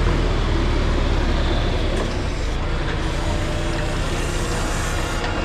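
A motor vehicle's engine running steadily close by, a constant low rumble with a hiss over it.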